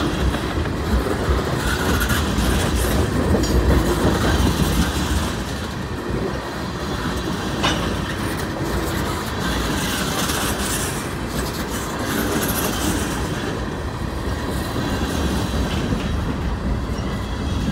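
Freight train's tank cars and a covered hopper car rolling past, steel wheels rumbling on the rails with a clickety-clack over the joints. There is a sharp metallic click a little before eight seconds in.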